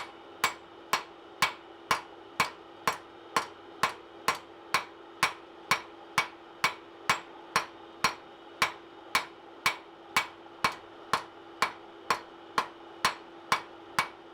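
Hammer blows on hot coil-spring steel over an anvil, drawing the bar's end down, in an even rhythm of about two strikes a second, each with a short ring. A steady hum runs underneath.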